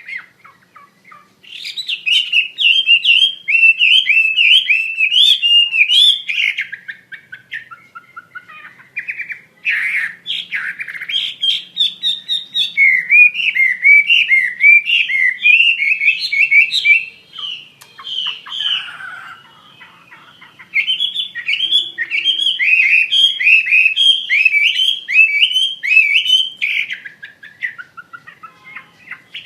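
A wambi mandarin (Chinese hwamei) singing loudly and at length: long phrases of quick, rising and falling whistled notes repeated in rapid runs, broken by brief pauses.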